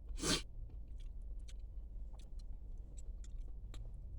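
A person chewing spicy fried chicken wings: faint scattered mouth clicks over a steady low hum, with one short, loud rush of noise a fraction of a second in.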